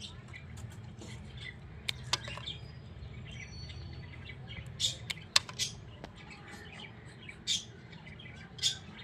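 Small birds chirping: short, sharp, high calls scattered at irregular moments, over a low steady hum.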